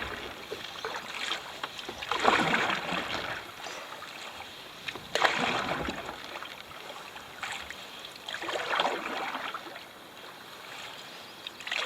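Canoe paddle strokes in lake water, a swish and splash roughly every three seconds.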